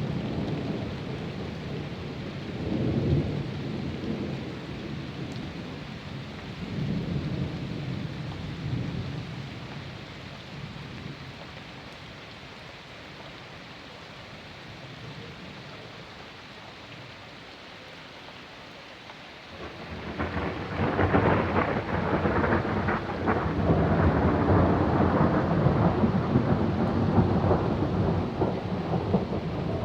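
Thunder during a thunderstorm, with rain. Rolling rumbles in the first third fade to a steady hiss of rain. About two-thirds of the way through, a sudden loud thunderclap breaks into a long, crackling roll.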